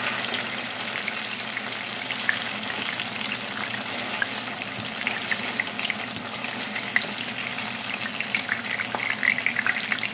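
Tofu cubes frying in hot oil in a pan: a steady sizzle full of small crackles, with louder pops near the end. The tofu is at the end of its second fry and is being stirred and lifted out with a slotted spoon.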